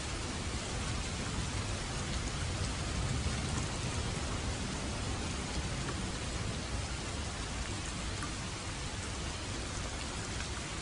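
Steady rainfall, an even hiss of rain with a low rumble underneath and scattered faint drop ticks.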